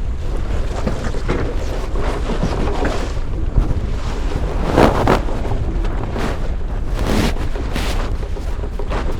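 Strong wind buffeting the microphone over water rushing past a sailing canoe in rough waves. Several louder splashes of waves against the hull, the strongest about halfway through.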